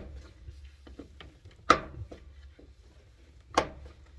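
A cockatoo moving about inside a clothes dryer drum: two sharp knocks about two seconds apart, each with a short ring, and lighter taps and clicks between.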